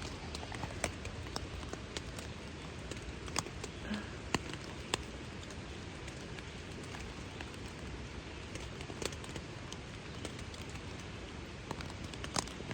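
Rain falling steadily, with irregular single drops tapping sharply close by.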